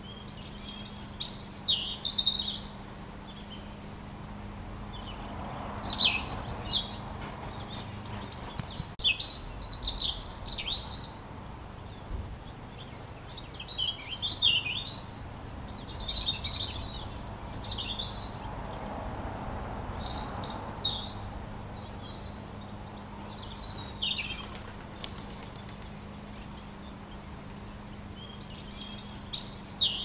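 Birds singing in quick, high chirping phrases that come in groups lasting a few seconds, with short pauses between them.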